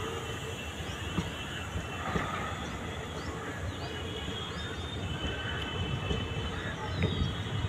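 Passenger train coaches rolling along the track: a steady rumble with scattered short wheel knocks and faint high squealing tones above it.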